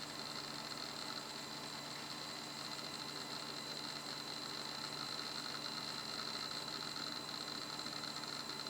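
Toshiba 2 GB laptop hard drive from a Libretto 50CT spinning steadily: an even whirring hiss with a high steady whine, unchanging throughout.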